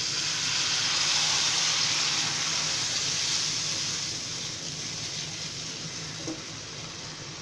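Water poured into a pan of hot oil and fried spice paste, setting off a hissing sizzle that swells within the first second and then slowly dies down as the water heats.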